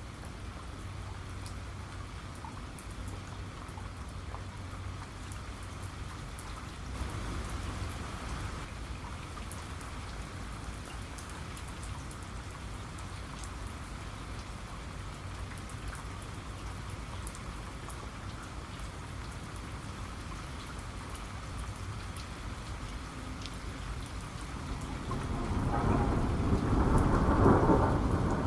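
Steady heavy rain falling, with a low rumble of thunder that swells up near the end and becomes the loudest sound.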